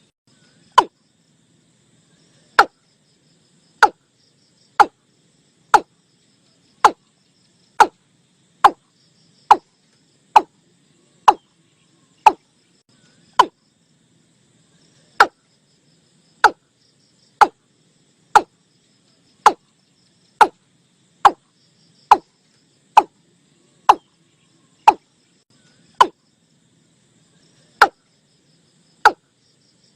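Male watercock call: a series of short, hollow notes, each dropping in pitch, repeated about once a second with a brief pause partway through. This is the bird's territorial call, used as a lure to draw watercocks in.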